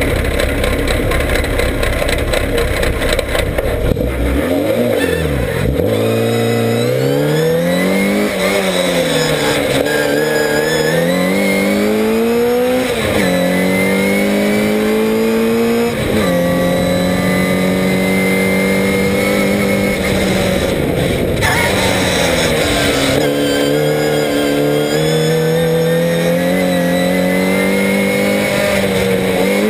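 Classic Mini's 1380cc A-series four-cylinder engine held at high revs, then launched hard and accelerating up a hillclimb through the gears. The pitch climbs and falls sharply at each upshift, about 13 and 16 seconds in, then dips and climbs again near the end.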